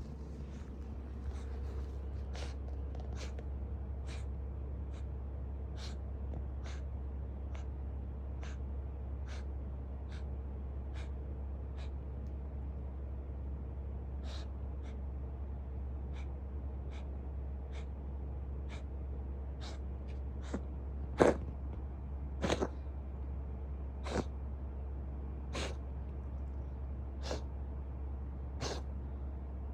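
Ginger tabby cat coughing over and over, short sharp hacks about once a second, with a few louder ones about two-thirds of the way through, over a steady low hum. It is the persistent cough of a cat in remission from FIP.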